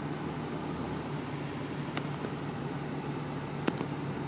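Steady low hum of a running vehicle engine, with a couple of sharp clicks about halfway through and a louder pair near the end.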